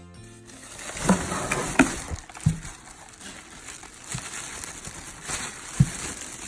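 Packaging being handled: rustling and crinkling, with several sharp knocks, the loudest about a second in, near two seconds and near six seconds.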